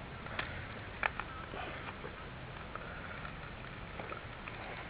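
A few light clicks and taps from small parts of a radio-controlled truck being handled during reassembly, over a steady background hiss.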